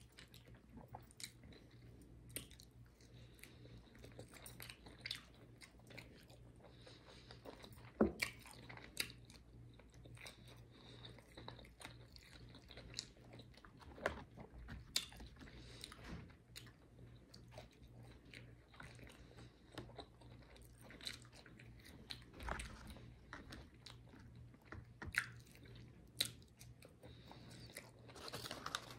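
A person chewing and biting fried chicken wings and french fries, with irregular sharp crunches and mouth clicks.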